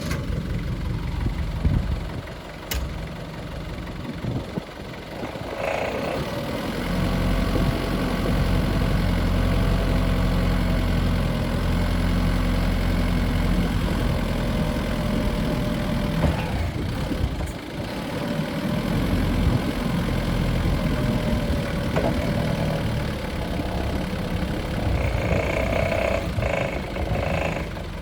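Atlet Y1D2A25T diesel forklift engine running after a start. It turns over at a lower speed first, then runs steadily faster and louder from about seven seconds in, dipping briefly partway through.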